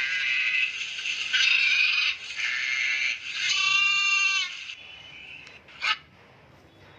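Goat bleating, several calls in a row, the last a long clearly pitched bleat, stopping about five seconds in.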